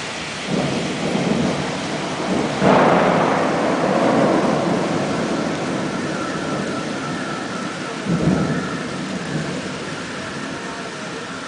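Thunderstorm: thunder rumbling over steady rain. A loud clap comes near three seconds in and rolls away over several seconds, and a second, smaller clap comes about eight seconds in.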